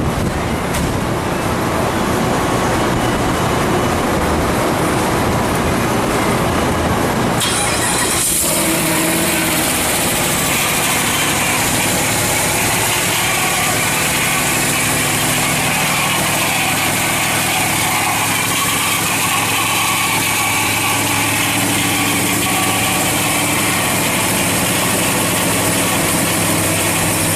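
Twin-turbocharged Jeep engine on its first start: it cranks, catches with a sudden change in sound about eight seconds in, then runs at a steady idle.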